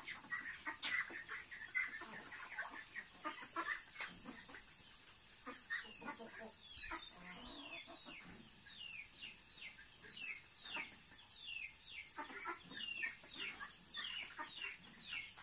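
Faint outdoor background: a steady high-pitched insect drone, with a bird chirping in a quick run of short, falling chirps through the second half and a few light clicks in the first few seconds.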